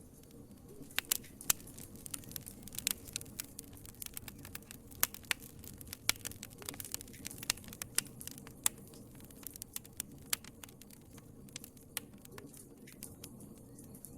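Wood fire crackling in a fireplace: irregular sharp pops and snaps over a low steady rumble of the flames. The pops come thickest in the first half and thin out toward the end.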